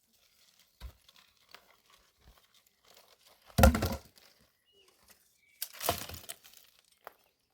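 Crumpling, rustling noise of something being handled, in a few bursts. The loudest comes about three and a half seconds in, another around six seconds, and one more at the very end, with faint crackles between.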